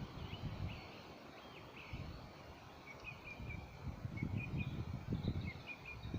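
Small songbirds chirping and twittering, with many short high calls. Under them is an irregular low rumbling that grows stronger in the second half.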